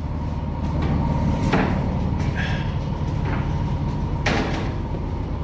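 Skids of freight being moved between two box trucks parked tail to tail: knocks and rattles about once a second over a steady low hum.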